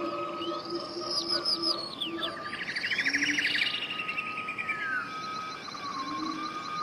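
Several wild birds singing at once: quick down-slurred whistles, a fast trill a little over two seconds in, and a long held whistle with lower short notes beneath.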